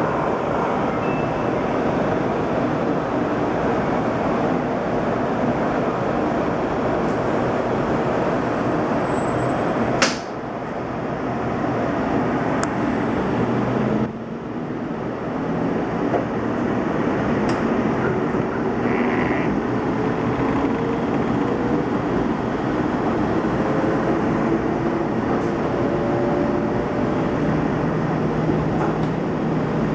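800-series Shinkansen accelerating, heard from inside a passenger car: steady running noise, with the traction motors' whine rising slowly in pitch from about halfway through. Two sharp clicks come about ten and fourteen seconds in, each followed by a short dip in the noise.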